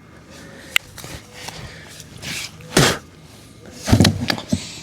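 Handling noises from planting seeds: a sharp click under a second in, a loud rustle near three seconds, and a cluster of rustles and light knocks about four seconds in.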